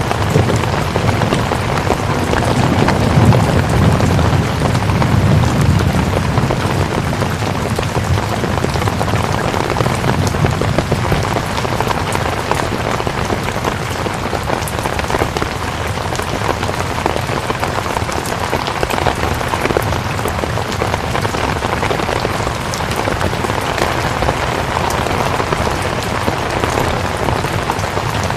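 Steady rain falling, an even hiss with fine scattered drop ticks. A low rumble sits under it for the first several seconds and then fades away.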